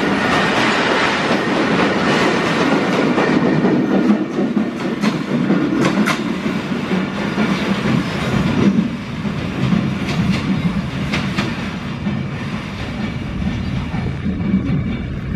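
Loaded oil tank wagons of a broad-gauge freight train rolling past, a steady rumble of wheels on rail with irregular clacks over the rail joints. The sound eases a little after about nine seconds, as the brake van at the tail goes by and the train draws away.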